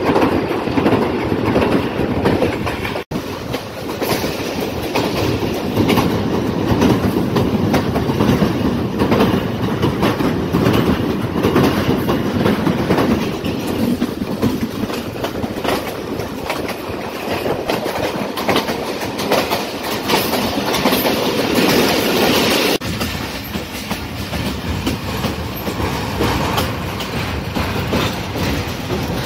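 Thall Express passenger train rolling along the track with a steady, loud rumble. The sound cuts out for an instant about three seconds in, and its upper hiss falls away at about 23 seconds.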